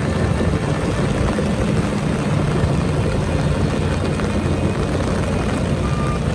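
Heavy diesel engine of earthmoving equipment running steadily under load. A single reversing beep starts near the end.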